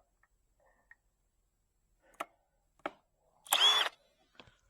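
Two sharp clicks, then a brief half-second burst from a cordless drill trying to drive a screw into wood, with a squeak. The screw is stubborn and will not go in.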